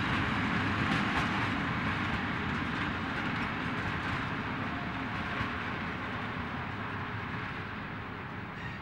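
Freight train of open wagons rolling away along the track, the wheel-on-rail noise slowly fading as the last wagons pull off.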